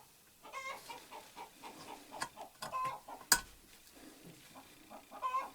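Short clucking calls of a bird, three or four times, and one sharp click a little past three seconds in, the loudest sound.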